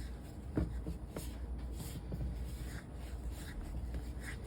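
Biscuit dough being mixed in a bowl, buttermilk worked into flour and grated butter, giving soft scraping and rubbing sounds with a few light knocks.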